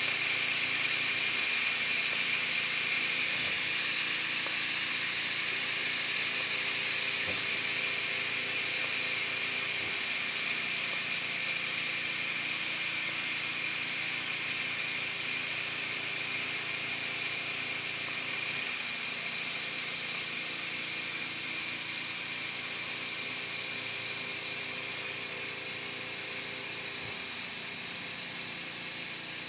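Steam hissing steadily out of the quick-release valve of a 6-quart Cook's Essentials electric pressure cooker, under a towel laid over the valve. The hiss slowly dies down as the pressure drops.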